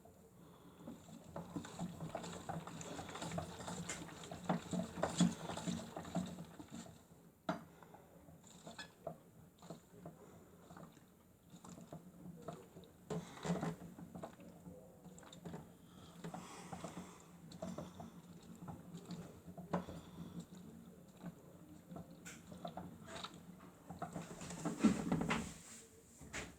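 Miele W1 toy washing machine washing: a small motor hums steadily while water and laundry slosh and patter in the turning drum, swelling and dying away in spells as the drum turns.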